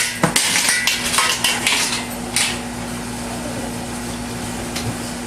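Small children banging hard objects together, a quick run of clattering strikes that stops about two and a half seconds in, leaving a steady low hum.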